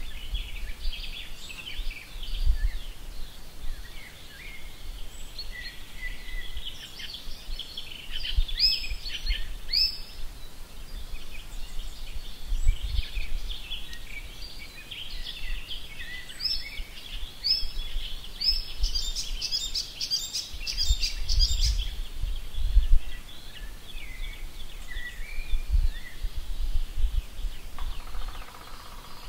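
Birds singing outdoors, many short high chirps and trills overlapping throughout, with a low rumble now and then.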